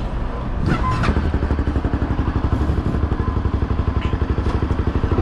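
Motorcycle engine running with a steady, even pulsing beat. A short clatter comes about a second in.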